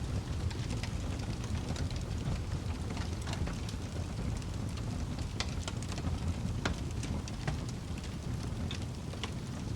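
Wood fire burning in a fireplace: a steady low rumble of the flames with irregular sharp crackles and pops from the burning logs, a few louder pops about halfway through.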